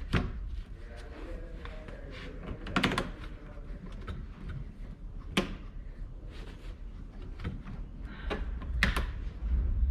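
Occasional sharp clicks and knocks from hand work refitting a radiator hose and its clamp, four or five of them spread over the time, over a low steady hum.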